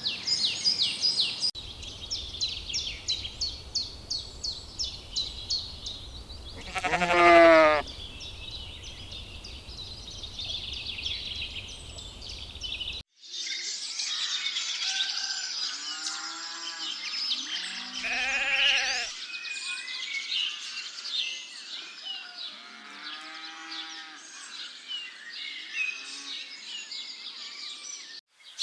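Sheep bleating: one loud, drawn-out bleat about seven seconds in, then several shorter bleats in the second half. A steady layer of rapid, high-pitched chirping runs underneath.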